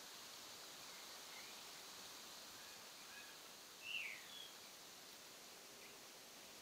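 Quiet outdoor hiss with a few faint bird chirps, and one clearer, falling chirp about four seconds in.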